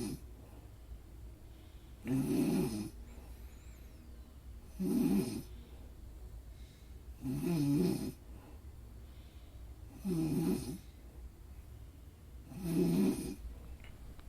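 Snoring: regular loud snores about every two and a half seconds, five in all, over a faint steady low hum.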